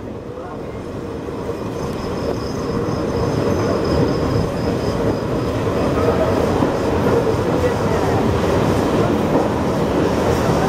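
Passenger express train running on the rails, heard from an open coach door as a rumble of wheels and wind. It grows louder over the first few seconds and then holds steady, with a faint thin high whine above it.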